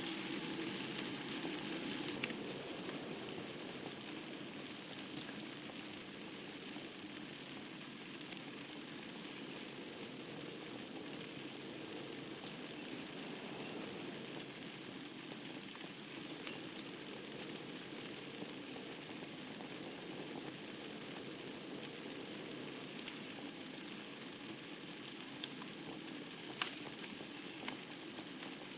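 Wood fire burning in a fireplace: a steady hiss with a few sharp crackles scattered through, the loudest near the end.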